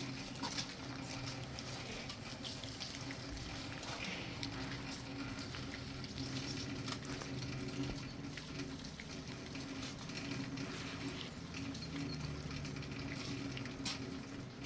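Rain falling steadily, an even hiss full of small drop hits, over a faint low steady hum.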